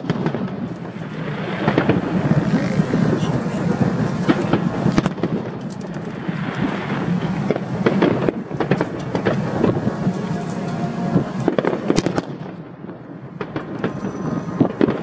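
Aerial fireworks display: a dense, continuous crackle and rumble with many sharp bangs, easing briefly a little before the end and then picking up again.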